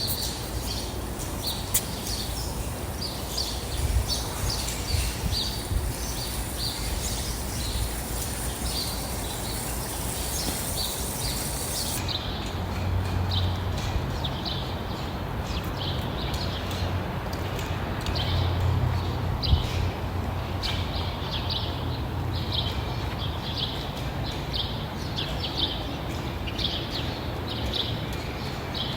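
Small birds chirping, short calls repeating about twice a second, over a steady low rumble.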